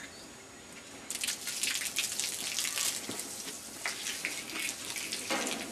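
Water spraying from a hose onto a car's body, an uneven hiss that starts about a second in.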